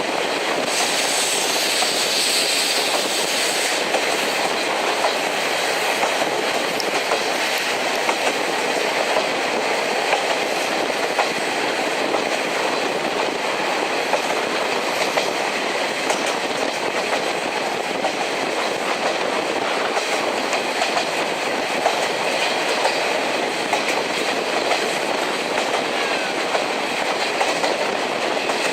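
Railway passenger coach running at speed behind a steam locomotive: a steady rumble of wheels on rails with clickety-clack over the rail joints. A high hiss stops about four seconds in.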